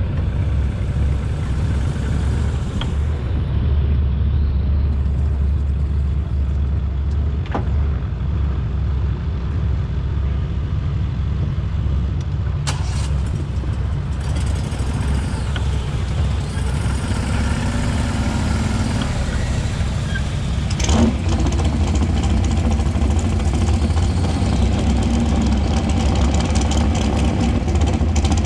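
A vehicle engine running steadily, heard as a continuous low rumble with a few faint clicks.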